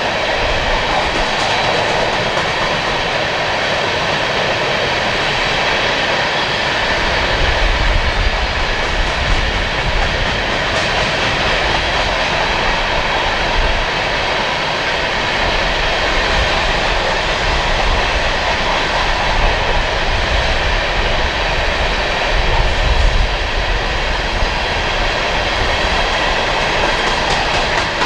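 BNSF coal train's hopper cars rolling past, a steady rumble and rattle of steel wheels on rail.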